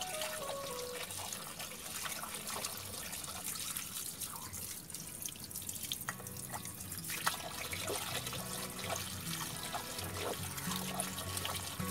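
Water running from a garden hose and splashing into a bird cage, with steady spattering and dripping, as a caged bird is given a soaking bath.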